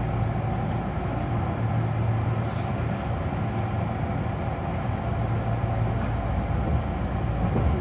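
Steady rumble and hum of a Kintetsu 6020 series electric train, heard from inside at the driver's cab end.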